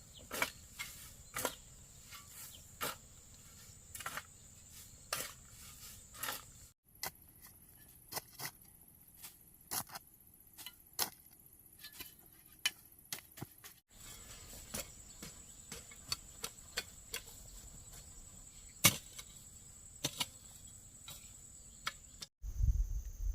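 Insects shrilling steadily at a high pitch, with irregular sharp snaps and knocks on top.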